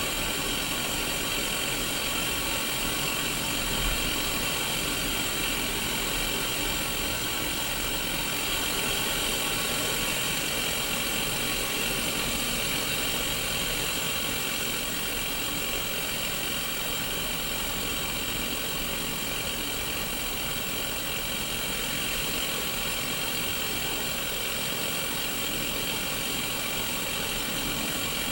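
Sony Mega Watchman mini black-and-white CRT TV playing static from an untuned channel: a steady white-noise hiss, brightest in a high band.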